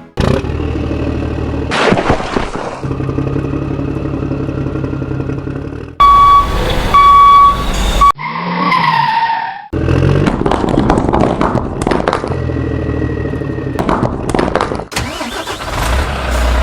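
Vehicle engine sound effects running with a rumble, broken off and restarting several times. About six seconds in come two loud, steady horn blasts, followed by a short falling tone.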